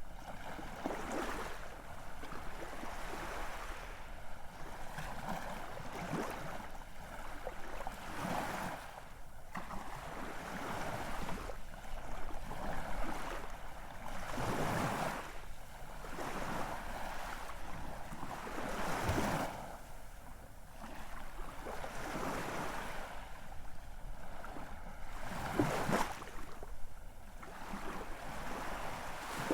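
Ocean waves breaking and washing in, each surge swelling and falling away every few seconds over a steady background of surf. The loudest washes come about halfway through, again a few seconds later, and near the end.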